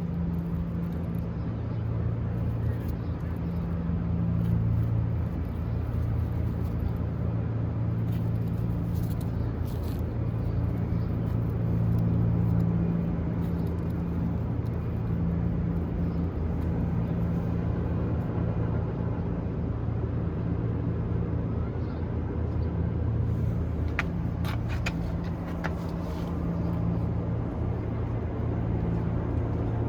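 A steady low mechanical hum that swells and fades slowly, with a few sharp clicks about 24 to 26 seconds in.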